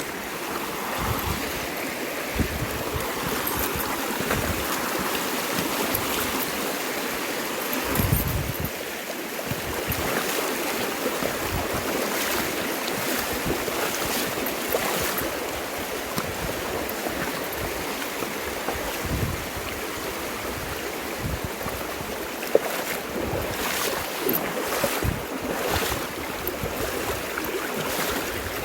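River water rushing steadily, with occasional low buffets on the microphone.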